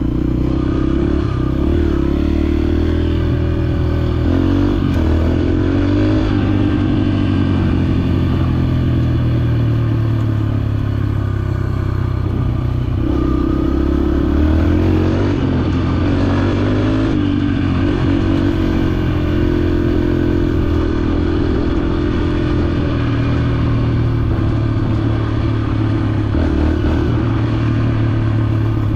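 Dirt bike engine running under changing throttle while riding a trail, pitch rising and falling as the rider accelerates and eases off.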